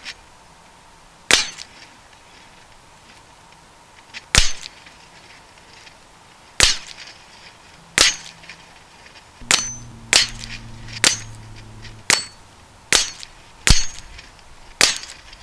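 .22LR rifle fired at a steel know-your-limits target, about eleven shots: slow and spaced at first, then coming about one a second or faster from about two-thirds of the way in. Several shots are followed by a short high ring of the steel plate being hit.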